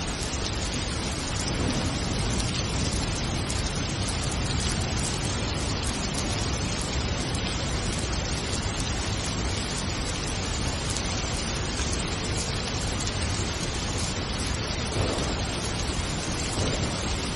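Steady rain falling, an even dense hiss with low rumble underneath.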